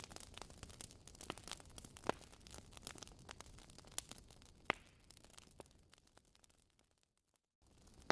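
Fireplace fire crackling: irregular sharp pops and snaps over a faint hiss, with a louder pop about two seconds in and another a little before five seconds. The crackle fades out, drops away almost entirely for about half a second near the end, then starts again abruptly.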